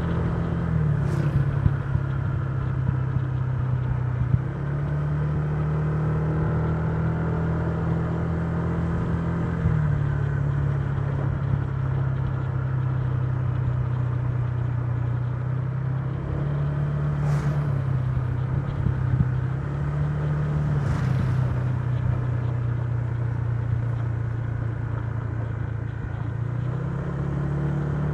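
Honda Giorno 125 scooter's single-cylinder engine running at cruising speed, its pitch holding steady but stepping slightly up and down several times as the speed changes.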